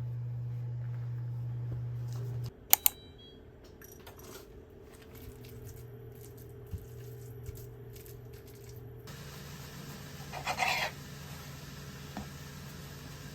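A low steady hum that cuts off, then two sharp clicks in quick succession, like small hard objects knocking together. After that come a few faint light knocks and, near the end, a brief scraping rustle.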